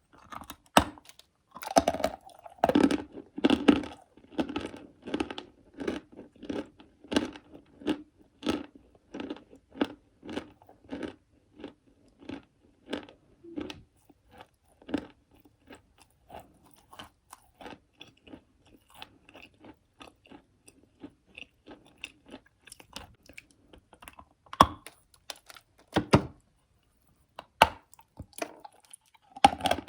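Close-up crunching of chalky clay being bitten and chewed: a fast run of crisp crunches, about two a second, that thins out after the middle to scattered chews, with a few loud single bites near the end.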